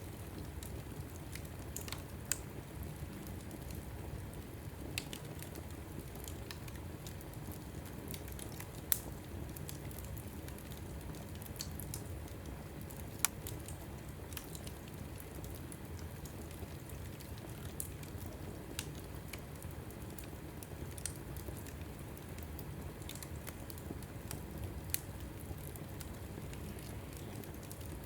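Log fire burning in a fireplace: a steady low rumble of flames with scattered sharp crackles and pops every few seconds.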